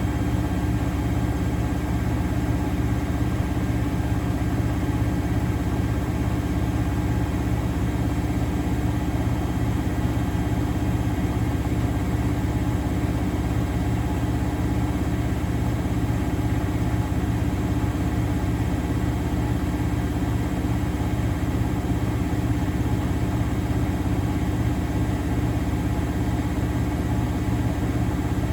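Miele Novotronic W921 front-loading washing machine spinning at a steady speed: an even motor hum with a few steady tones, running without a break.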